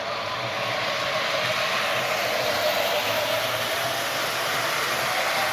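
MTH Rail King O gauge GM Aerotrain model running forward. Its Proto-Sound 3.0 diesel engine sound plays from the onboard speaker, mixed with the running noise of the motor and wheels on the track, steady throughout.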